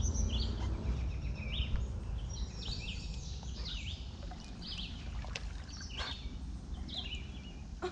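Small birds chirping repeatedly in short, falling notes, over a steady low rumble.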